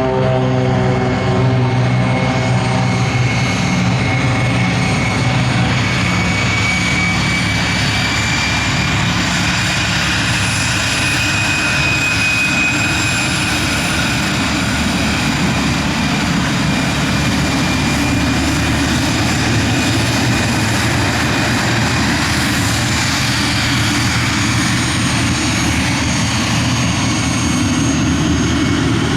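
An airplane's engines running loud and steady, with a high whine that rises and then falls off through the middle. In the first few seconds a low droning hum fades away.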